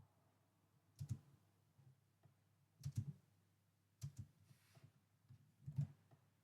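Computer keyboard keys clicking in four short, sparse clusters, about a second or two apart.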